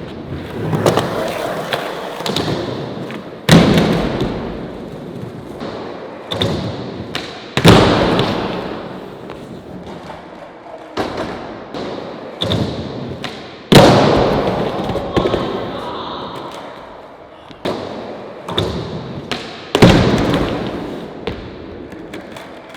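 Skateboard being popped and slammed onto the ground during repeated flip-trick attempts: a string of sharp board impacts, four of them loudest (about 3.5, 7.5, 13.5 and 20 seconds in), each trailing off into the rumble of wheels rolling on pavement, with smaller knocks between.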